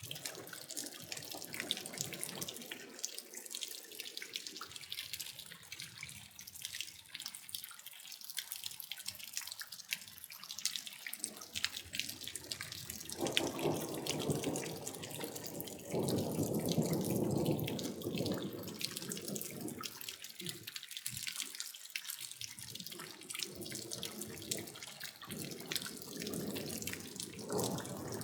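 Water dripping and splashing, many small drop impacts in quick succession, with heavier runs of water noise about halfway through and again near the end.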